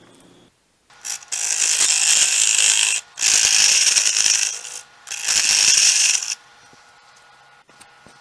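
A turning tool cutting into a spinning sweet gum log on a wood lathe, turning down a tenon: three loud, hissing cuts of one to two seconds each, then the lathe running more quietly.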